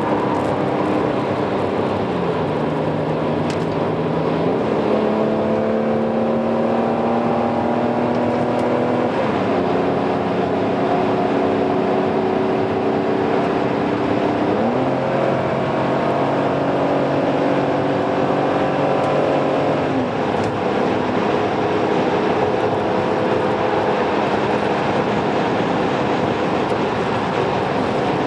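Car engine heard from inside the cabin at speed, running at fairly steady revs over continuous road and wind noise. The engine note sags and picks up several times, rising quickly about halfway through.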